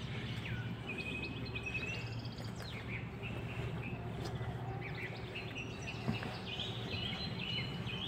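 Small birds chirping and calling in short high notes scattered throughout, over a steady low background hum.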